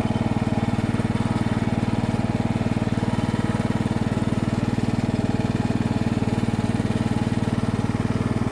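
Craftsman riding lawn mower's engine running at a steady speed while the mower is driven, an even, fast, unchanging beat.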